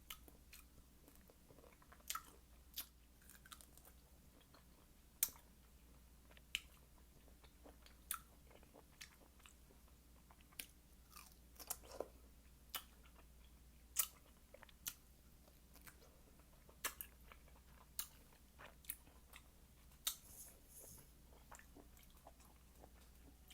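Close-miked chewing and biting of fresh fruit: faint wet mouth sounds broken by sharp, irregular clicks and crunches, roughly one every second.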